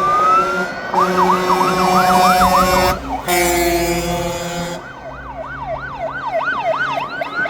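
Fire engine sirens: a wail rising at the start, then a fast yelp cycling about three to four times a second, broken about three seconds in by a horn blast lasting nearly two seconds, then the yelp again.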